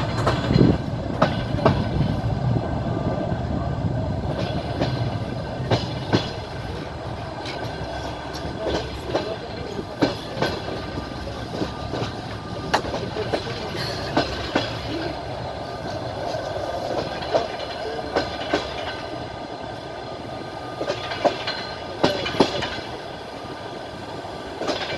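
Train wheels clattering over the rail joints while the train runs along the line, a steady rumble broken by irregular knocks and clicks.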